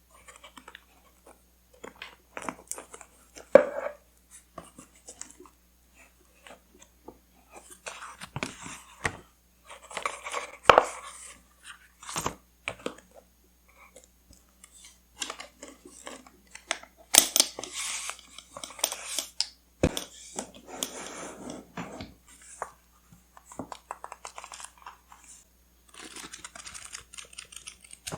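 Paper and stationery handled close to the microphone: irregular rustling, crinkling and tearing of paper with scattered sharp taps and clicks, in short bursts separated by brief pauses.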